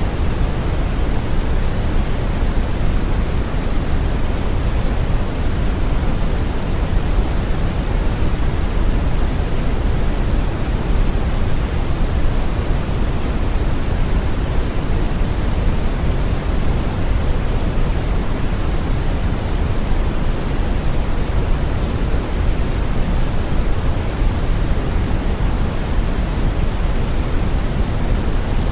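Steady brown noise: an even, unchanging rumbling hiss, heaviest in the low end and thinning toward the top.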